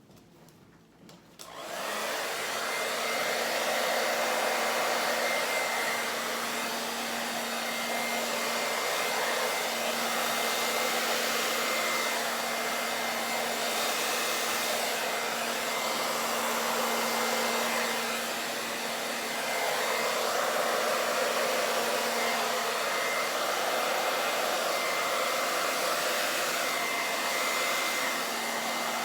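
Hair dryer switched on about a second and a half in and running steadily, its air blowing fluid acrylic paint across the canvas in a Dutch pour, with a faint steady whine over the whoosh of air.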